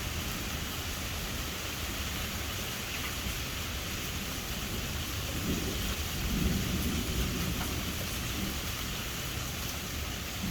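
Steady rain falling, with a low rumble of thunder that swells about halfway through and starts again near the end.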